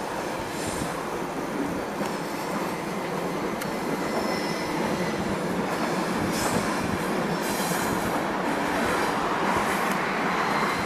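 An SBB RABe 514 Siemens Desiro double-deck electric multiple unit rolls slowly into the station over curved track and points, its wheels squealing faintly on the curves. The running noise grows a little louder as it draws alongside.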